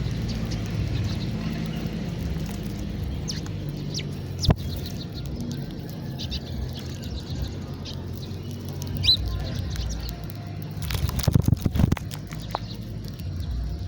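House sparrows chirping in short, scattered notes over a steady low rumble, with a sharp click about four and a half seconds in and a brief burst of loud fluttering around eleven seconds in.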